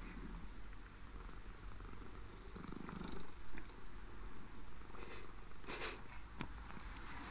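British Shorthair cat purring steadily, with three brief clicks between about five and six and a half seconds in.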